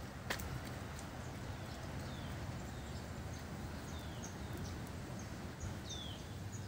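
Outdoor ambience with a steady low rumble, over which a bird gives several short, high chirps that slide downward in pitch, spread through the second half. A single sharp click sounds just after the start.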